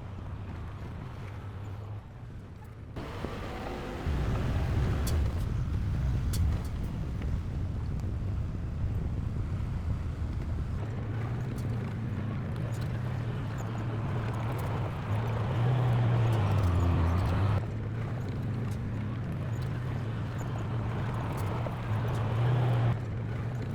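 Heavy diesel engine of earthmoving machinery running steadily, growing louder about four seconds in as it works harder, with a few sharp clicks. The sound jumps abruptly at a couple of points.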